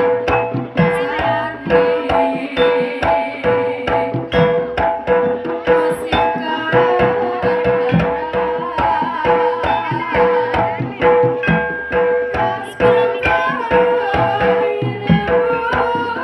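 Live gamelan music for a jaranan dance: kendang hand drums beat a fast rhythm under a ringing note that repeats steadily, with a higher melody line weaving above.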